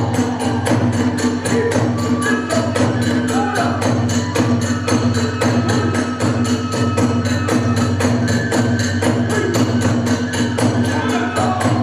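Hiroshima kagura accompaniment: a drum and small hand cymbals (tebyōshi) keep a fast, even beat of about five strikes a second, with a flute melody over them.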